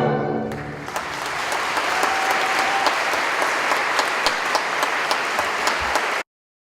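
Audience applauding in a church after the music ends, a dense spread of clapping that starts about half a second in. It cuts off suddenly near the end, leaving silence.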